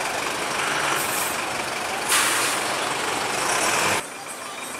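Heavy multi-axle truck running, engine and road noise together, with a short loud air-brake hiss about two seconds in. The sound drops suddenly near the end.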